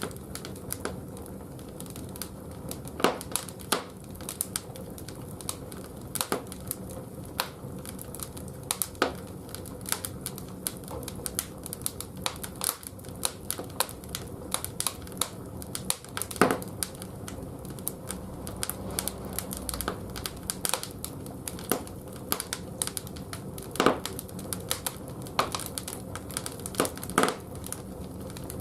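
Firewood crackling and popping irregularly as it burns in the firebox of a wood-fired bathhouse boiler, a few pops much sharper than the rest, over a steady low hum.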